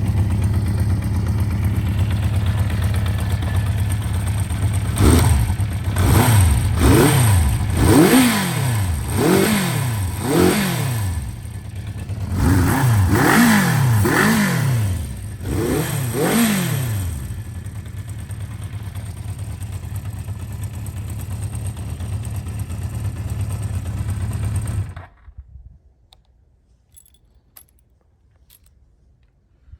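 Honda CB400F air-cooled inline-four with a Marving aftermarket exhaust idling, then revved in two runs of quick throttle blips, each rev rising and falling back to idle. It settles to a steady idle and is switched off near the end, the exhaust cutting out abruptly and leaving only a few faint clicks.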